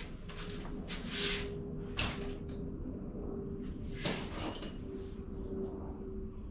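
A few short scrapes and knocks from metal hand tools, a drill bit among them, being picked up and handled, with a faint steady hum underneath.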